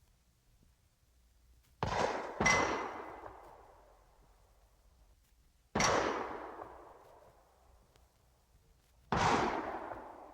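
Four sharp bangs from a sound-effects record, each with a long echoing decay; the second comes about half a second after the first and carries a brief metallic ring.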